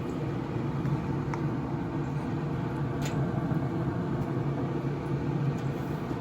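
Steady low hum of a Camp Chef Woodwind SG pellet grill's fan running after it has been switched off, the shutdown cycle that burns out the remaining pellets, with a couple of faint light clicks.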